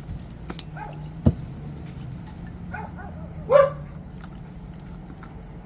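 A dog barking and yipping in short calls, the loudest about three and a half seconds in, over a low steady hum, with one sharp click a little after a second in.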